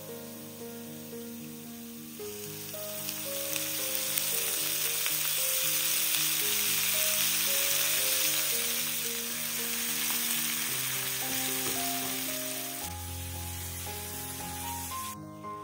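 Food sizzling as it fries in hot oil in a pan, swelling about two seconds in, then fading and stopping just before the end. A gentle background melody plays throughout.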